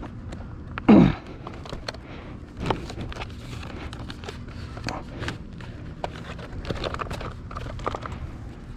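Rummaging through discarded items: scattered rustling, crinkling and small knocks and clicks of things being handled. About a second in comes one short, loud sound that falls in pitch, like a creak or squeal.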